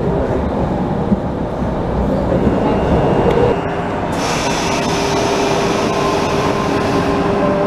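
Sydney Trains electric suburban train running on the track, a steady low rumble. About four seconds in the sound switches abruptly to a double-deck electric train standing at an underground platform, with a steady hum and a high hiss.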